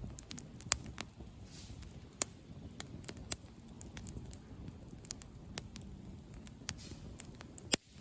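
Wood campfire crackling: irregular sharp pops and snaps over a low, steady rustle of burning.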